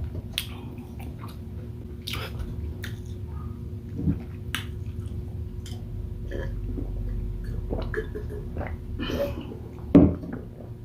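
Close-miked chewing of shrimp and rice in coconut sauce: wet smacking and scattered small clicks, with a louder mouth sound about ten seconds in.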